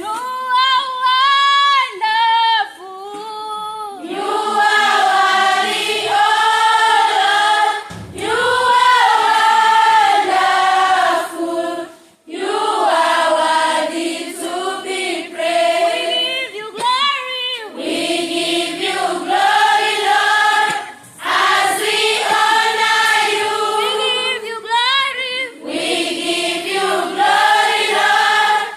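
A choir singing sustained phrases with wavering pitch, voices only, with short breaks between phrases.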